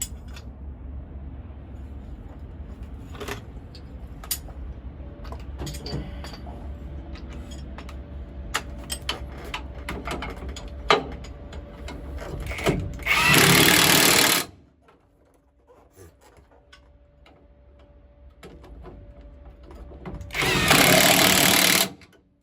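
A power tool runs in two bursts of about one and a half seconds each, partway through and again near the end, while fastening a driveshaft carrier bearing or yoke. Before the first burst there is a low rumble with scattered clicks and knocks.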